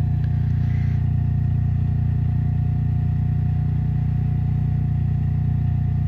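Briggs & Stratton Q6500 inverter generator running steadily at full speed with its QuietPower (QPT) mode switched off, a constant engine hum with a faint steady whine above it.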